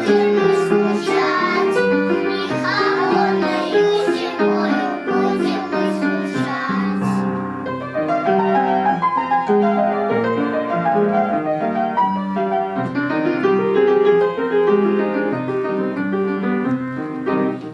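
Young children's choir singing a children's song in Russian to piano accompaniment.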